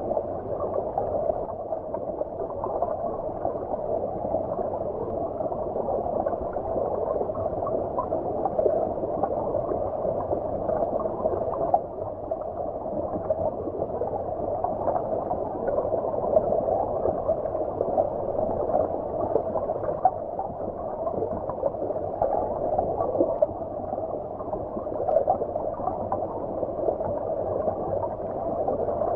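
Shallow stream flowing, heard from under the water's surface: a steady, muffled wash of moving water with no high-pitched splashing.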